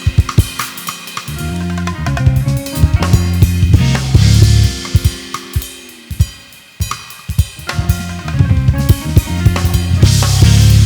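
Live band playing an instrumental groove: a drum kit with snare, bass drum and cymbals over sustained bass notes and keyboard chords. The band drops down briefly past the middle, then builds back up.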